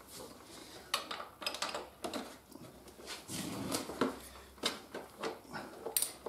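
Scattered light metallic clicks and clinks of hand tools being handled against a motorcycle's front fork and its clamps, with some soft handling knocks in between.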